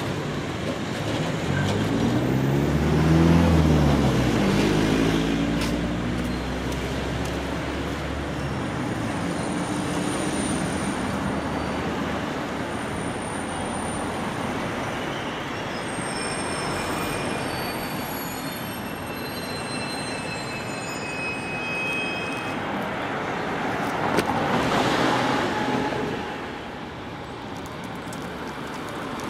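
Old JNR 183-series electric train rolling slowly over station tracks. A low motor hum rises and falls in pitch a few seconds in, over the steady rumble of wheels on rail. Thin high wheel squeals come through the middle, and a louder rush of rolling noise comes near the end.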